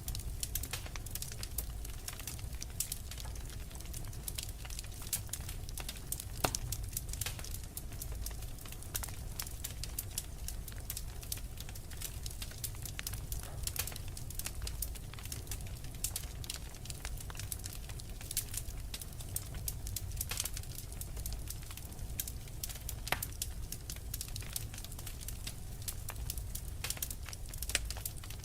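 Wood fire in a fireplace crackling steadily: many small irregular pops and snaps over a low, even rumble of the flames.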